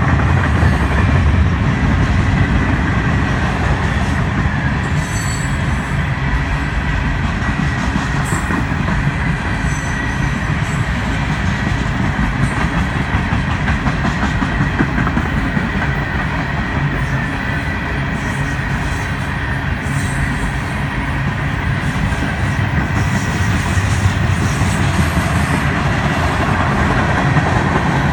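Freight train cars rolling past at steady speed: a continuous rumble of steel wheels on rail with scattered clicks and a faint steady wheel squeal.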